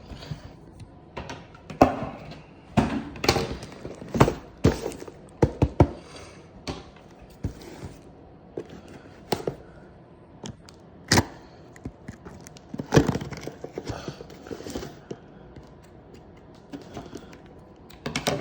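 Irregular clicks, knocks and clunks of hand tools and metal parts being handled and set down while a go-kart carburetor is fitted, with a few louder knocks among them.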